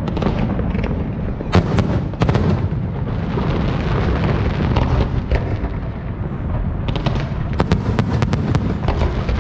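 Fireworks display: a continuous low rumble of bursting shells, with a few sharp cracks about a second and a half in and a quick run of cracks from about seven seconds in.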